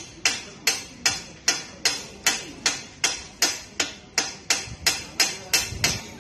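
Hammer striking steel in a steady run of sharp, ringing blows, nearly three a second, which stop near the end.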